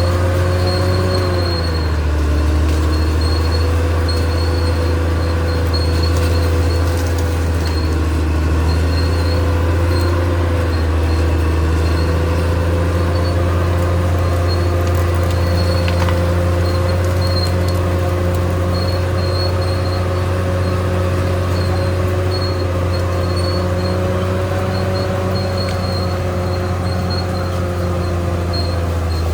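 Caterpillar D6R XL bulldozer's diesel engine running steadily with a deep drone and a whining tone; the pitch dips slightly about two seconds in, then holds.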